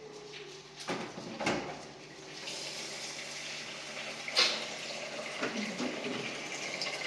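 A few sharp knocks, then water starts running, as from a tap into a sink or basin, about two and a half seconds in, with another knock partway through.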